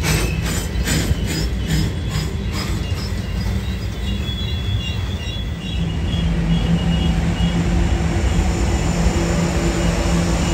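Freight train of tank cars rolling by with a steady low rumble, while a grade-crossing bell rings about three times a second for the first few seconds. Short high wheel squeals follow, then the steady hum of a diesel locomotive grows louder toward the end as it comes alongside.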